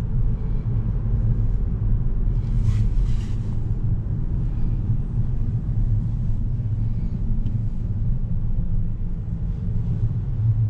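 Steady low rumble of a 2011 Volkswagen Golf VI's 1.4-litre four-cylinder TSI engine and road noise while driving. A brief rush of noise comes about three seconds in.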